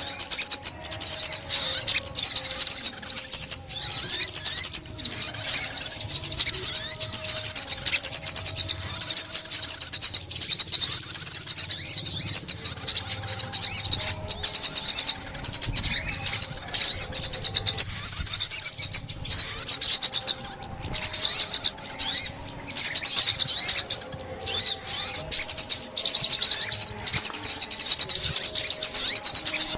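Sunbird song: rapid, high-pitched twittering and trilled chirps, running on with only short breaks.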